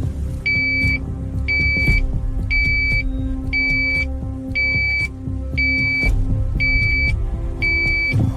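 Electronic beeper sounding a steady run of eight half-second beeps at one high pitch, about one a second, over a low vehicle rumble.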